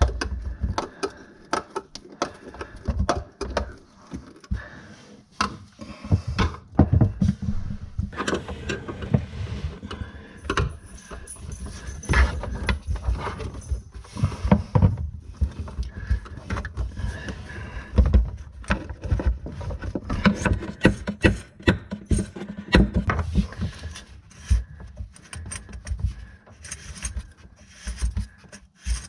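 Irregular clinks, knocks and rattles of hand tools and metal plumbing parts being handled and fitted under a sink.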